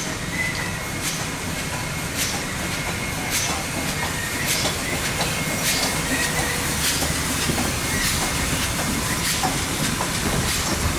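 Train rolling along the track: a steady rumble with sharp rhythmic beats about once a second and a faint intermittent high squeal.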